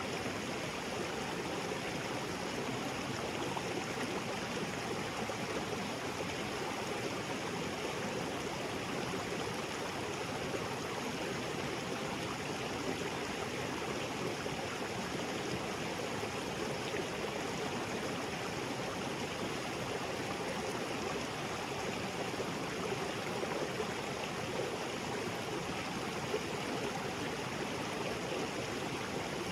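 Small waterfall spilling into a rocky jungle creek, a steady rush of falling and running water with a light gurgle.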